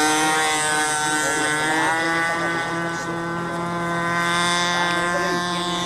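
Small model aircraft engine running, revving up near the start and again about two seconds in, then holding a steady high pitch.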